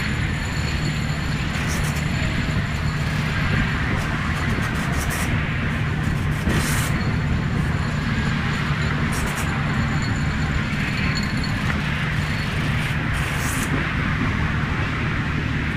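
Semi-truck running, with a steady low engine drone and road noise and a few faint high clicks or rattles.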